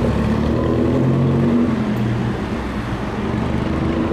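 Pre-war Bentley racing car's engine pulling away under throttle: a deep, steady engine note that swells about a second in and eases off a little after two seconds.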